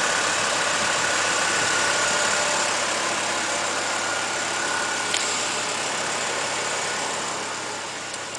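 A 2010 Chevy Colorado's 3.7 L inline-five idling quietly under a steady hiss, with a single small click about five seconds in.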